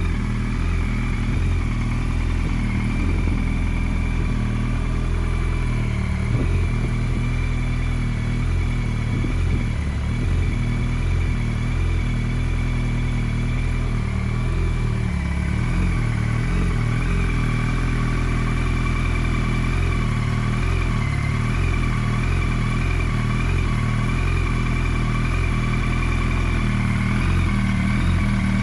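A 2007–08 Yamaha R1's inline-four engine idling steadily, through an aftermarket Akrapovič Y-pipe and Scorpion canister exhaust.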